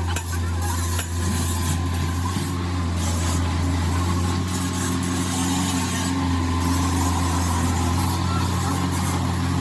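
A steady engine hum with even low harmonics, and a couple of short knocks about a second in.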